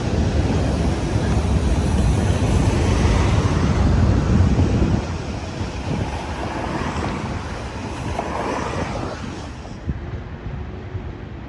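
Freight train running past, a steady low rumble with heavy wind buffeting on the microphone; the sound drops sharply about five seconds in.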